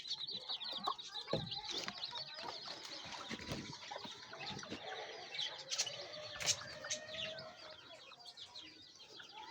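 Many small birds chirping in a rapid, high twitter that thins out toward the end, with a few chicken clucks and scattered short knocks.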